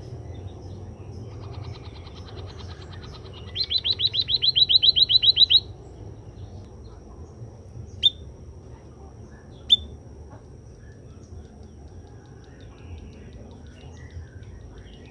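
White-headed munia (emprit kaji) calling: a rapid high trill of about ten notes a second that swells over two seconds and stops abruptly, then two sharp single chirps a second and a half apart, with fainter notes afterwards.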